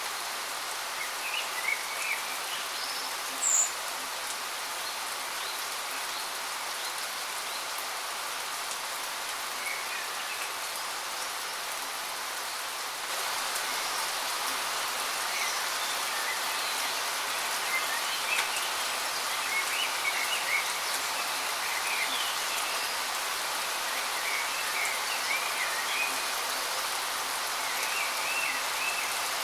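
A waterfall's steady rush of falling water, with small birds chirping over it now and then. A single sharp, high chirp comes about three and a half seconds in, the water gets a little louder about halfway, and the chirping grows more frequent in the second half.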